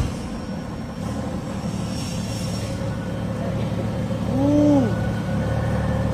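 V12 engine running with a steady low hum. A sharp click comes right at the start, and a brief rising-then-falling tone sounds about four and a half seconds in.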